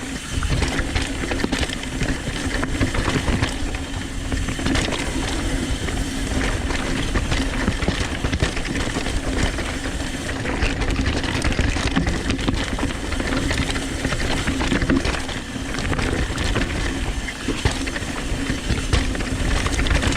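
Downhill mountain bike riding a rough trail: tyres on dirt and rock, the bike rattling over bumps, wind on the microphone, and a steady low hum under it.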